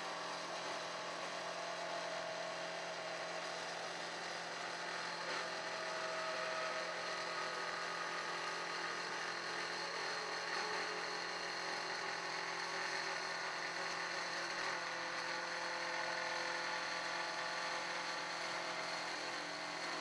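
BTM 71 51 ADS CNC 3000 sawing machine running: a steady machine whir with several held tones, even throughout.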